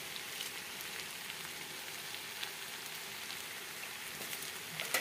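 Flat beans (chikkudukaya) and potato cubes sizzling in oil in a steel kadai, a steady frying hiss with scattered faint ticks.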